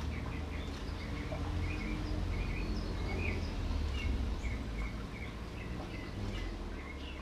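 Small birds chirping, short calls about twice a second, over a steady low rumble.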